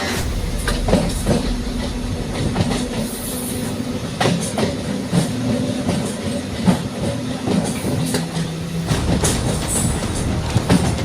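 MEMU electric train running along the track, with a steady hum and irregular clicks and knocks of the wheels over rail joints.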